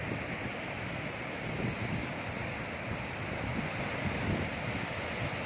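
Sea waves washing on the shore, a steady rush of surf, with wind buffeting the microphone in low gusts.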